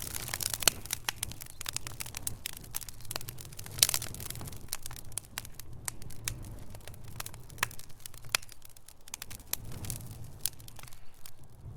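Wood fire crackling in a fireplace: burning logs giving off irregular pops and snaps over a low steady rumble, with one louder pop about four seconds in.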